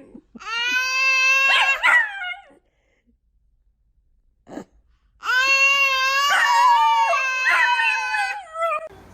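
Dog howling: two long, steady howls, the second one longer, with a short quiet gap between them.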